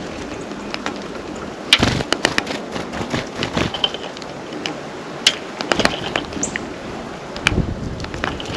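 Irregular sharp taps and clicks of small birds pecking and landing at a seed feeder close to the microphone, the loudest about two seconds in, with a few brief high chirps.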